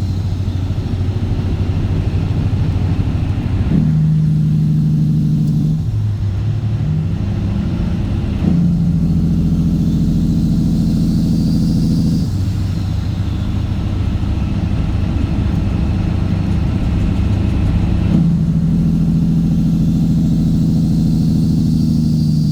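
Straight-piped Cat C15 Acert diesel in a Kenworth W900 running loud and steady under way. Its exhaust note jumps abruptly between a lower and a higher steady pitch several times.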